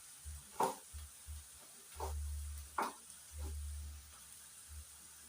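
Stovetop cooking: a faint steady hiss from the pan, with a few light clicks of a utensil against the pot and some low dull rumbling bumps.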